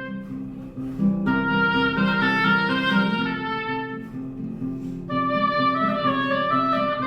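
Live instrumental music: held, reedy melody notes over a repeated low plucked accompaniment figure. A new phrase starts about a second in and another about five seconds in.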